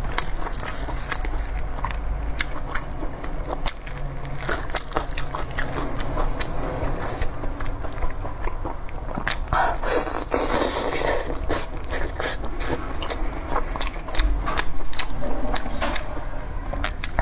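Close-miked eating of sauce-glazed pork: wet chewing and biting with many small mouth clicks and smacks. A louder, longer burst of noise comes about ten seconds in.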